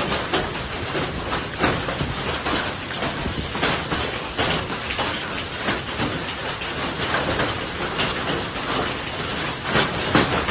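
Heavy rain pouring down, a dense steady hiss with frequent irregular louder splatters.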